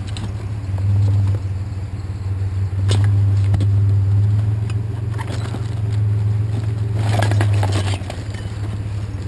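Pickup truck engine running with a steady low drone, a few sharp clicks about a third of the way in, and a short burst of rattling or scraping near the end.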